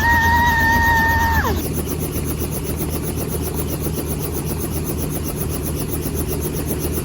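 Helicopter running close by, with a steady noise and a fast, even pulsing from the rotor. A high, steady whine sounds over it for about the first second and a half, then drops in pitch and fades.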